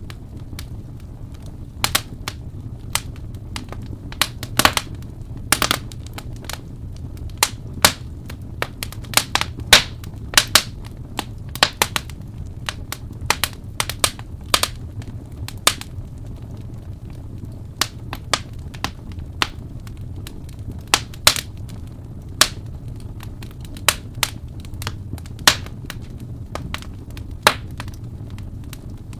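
Wood fire crackling: irregular sharp pops and snaps, several a second in places, over a steady low rumble of burning.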